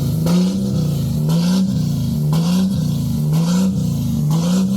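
A vehicle engine revving up and dropping back again and again, roughly once a second, in a steady cycle of rises and falls.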